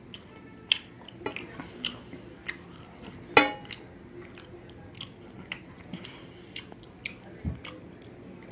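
Close-up eating sounds of a person chewing with the mouth near the microphone: many short wet clicks and smacks at uneven intervals. One louder sharp sound comes about three and a half seconds in.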